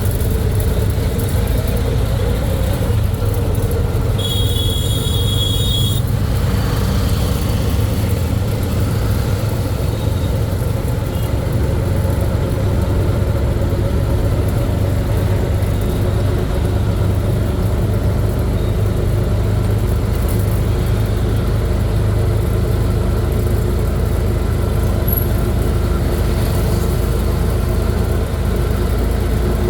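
Motor vehicle running steadily on the road, a low continuous rumble, with a brief high-pitched tone about four seconds in.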